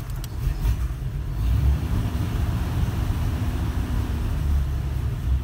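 1938 Chrysler C18's flathead straight-six running just after a cold start, with a brief rise in revs about a second and a half in, then held at a fast idle by the dash hand throttle pulled out, in place of a high-idle cam.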